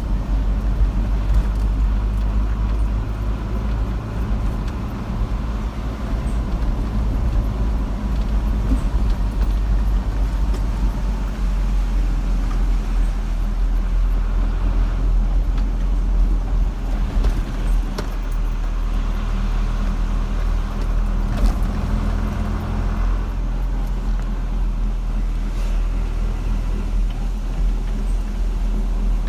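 A car driving along a road, with a steady low rumble of road and engine noise.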